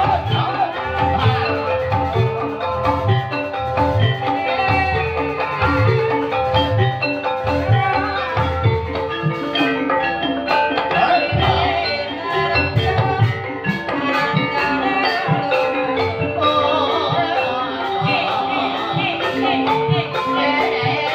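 Live gamelan-style ebeg accompaniment: tuned struck-bar percussion playing a busy repeating melody over a steady, regular drum beat.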